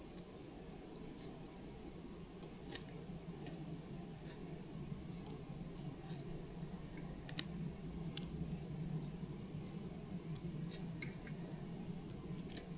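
Wood campfire crackling, with irregular sharp snaps and pops over a low steady background.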